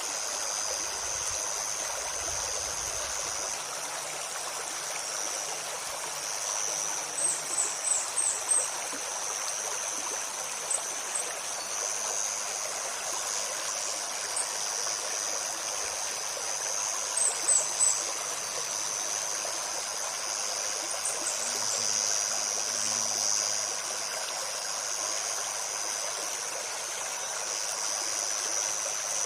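Stream running steadily over stones, with a high insect buzz that swells and fades. Small birds give short, very high chirps in three brief clusters, about a quarter, three fifths and two thirds of the way through.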